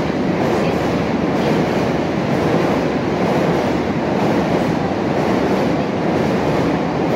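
Steady loud rumble of an electric train running in the station, with wheels clattering on rail.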